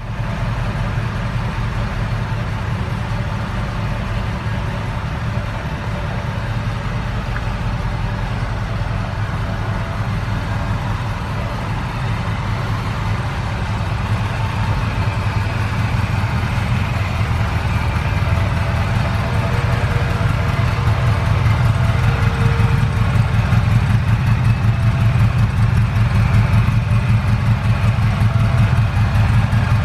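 1978 Ferrari 308 GTS's V8 engine idling steadily, with a deep, even exhaust note that grows louder about halfway through.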